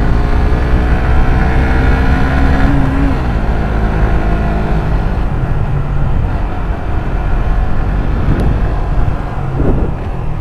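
Suzuki GSX-R150's single-cylinder engine running while the bike is ridden, with heavy wind rumble on the microphone. The engine note climbs for the first few seconds and drops off about three seconds in, then dips and rises again near the end.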